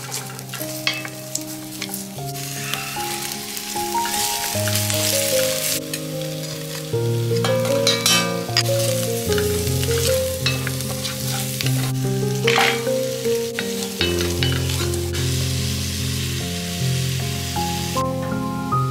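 Chopped onion and sausage sizzling in oil in an enamelled cast iron casserole pot, stirred and scraped now and then with a wooden spoon. Background music plays underneath.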